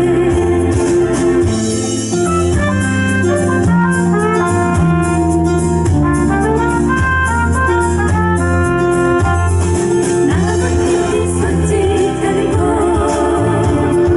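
Live vocal ensemble singing a Korean pop song in harmony over instrumental accompaniment, with a stepping melody over a steady bass line.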